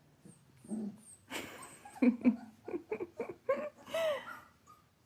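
Puppies playing: a noisy rush about a second and a half in, then a quick string of short yips and barks, ending near four seconds in with a high whine that rises and falls.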